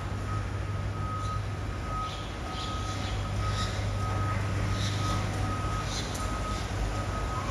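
Garbage truck's reversing alarm beeping steadily, a single tone repeating a little more than once a second, over the low, steady hum of the truck's idling diesel engine.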